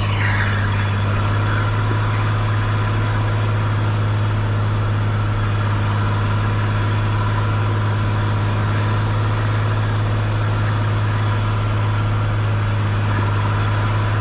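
Cessna 182 Skylane's piston engine and propeller making a steady low drone in the cabin on final approach.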